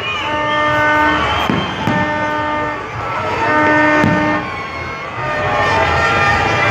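A horn blowing three long, steady blasts of about a second each, over a noisy crowd background.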